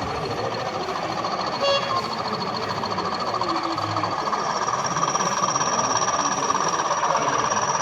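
Model train running on a layout: a steady rolling rumble with a thin high motor whine that steps up in pitch about four seconds in, and a brief click early on.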